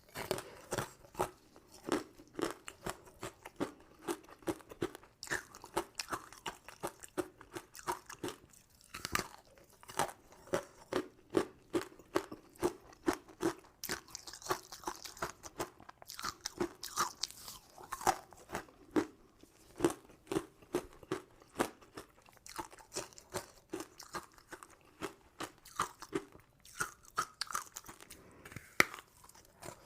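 Close-miked chewing of crunchy sugar-coated sweets: a steady run of crisp crunches, about two a second.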